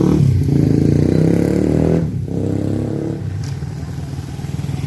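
A motor vehicle's engine accelerating nearby, its pitch rising, dropping briefly at a gear change about two seconds in, then rising again before easing off.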